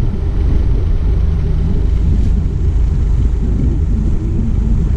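Motorboat engine running steadily under way, with wind rumbling on the microphone.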